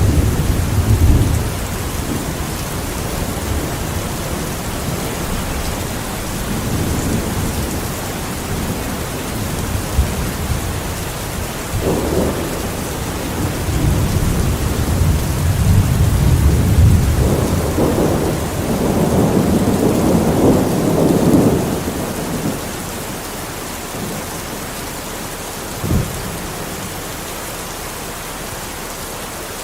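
Steady rain with rolling thunder. Low rumbles swell and fade several times, strongest through the middle, and a short thump comes near the end.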